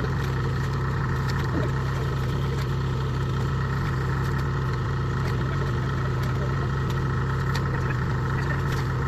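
Kubota DC70 Plus rice harvester's diesel engine running steadily, a constant low hum with no change in speed.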